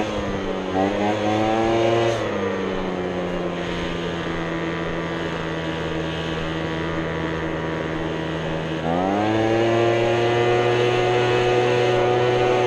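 Small gasoline engine of lawn equipment running steadily. It drops to a lower speed about two seconds in, then is throttled back up about nine seconds in and holds the higher speed.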